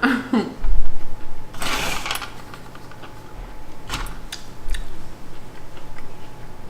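Dishes and cutlery being handled and set down after a meal: scattered light clicks and clinks, with a heavy low bump about a second in and a sharper click about four seconds in.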